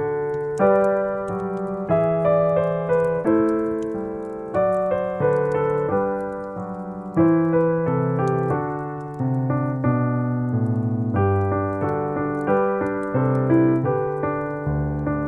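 Solo piano music at an unhurried pace, each note or chord struck and left to ring and fade.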